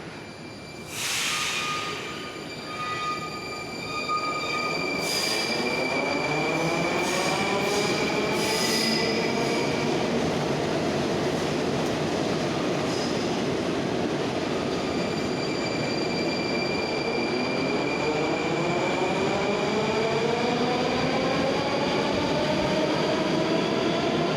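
Rusich metro train running, its traction motors giving a whine that rises in pitch as the train gathers speed, with a second rising whine later on, over steady wheel and track rumble.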